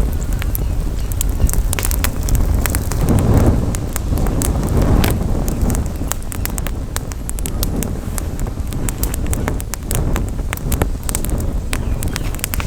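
Outdoor campfire crackling, with frequent sharp, irregular pops from the burning wood over a steady low rumble of wind on the microphone.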